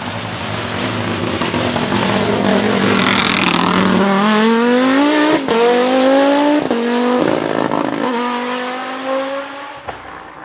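Hillclimb race car accelerating hard past at close range. Its engine note rises in pitch several times, each rise cut short by a quick upshift, and the sound fades away near the end.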